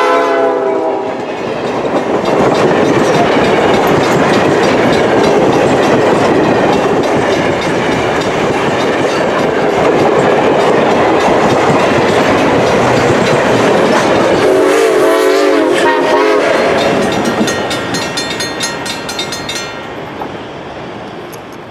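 Reading & Northern 425's steam-hauled train passing: a long loud rush of rail and car noise, with a short wavering blast of its six-chime whistle about two-thirds of the way through. Near the end the wheels' rapid clatter fades as the train moves off.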